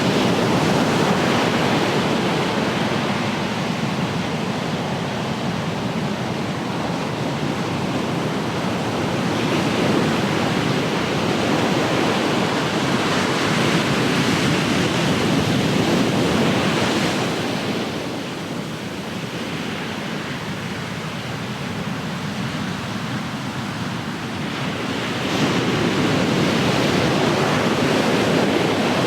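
Ocean waves breaking and washing on the shore, a continuous rushing surf that swells and eases, quieter for a stretch past the middle and building again near the end.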